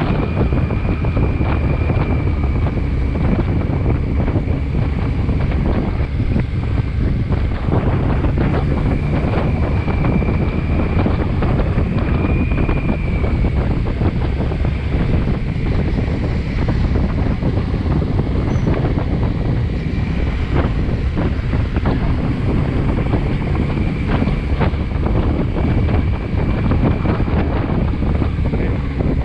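Wind buffeting the microphone on a moving motorcycle, a steady low rumble with the engine running underneath.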